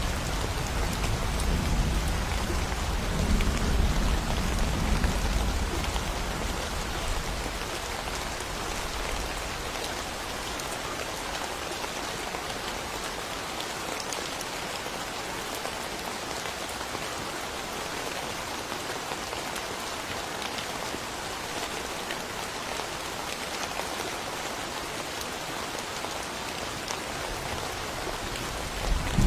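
Steady rainfall, with a low rumble of thunder dying away over the first several seconds, then rain alone.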